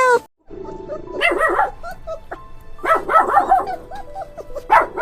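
Dog barking and yipping in three quick flurries of short calls, over background music.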